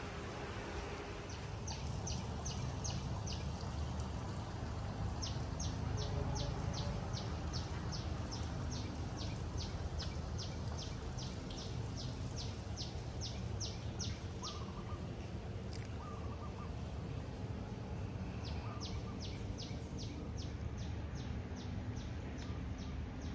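A bird calling in long runs of short, high notes, about three a second, in three spells with pauses between, over a steady low rumble.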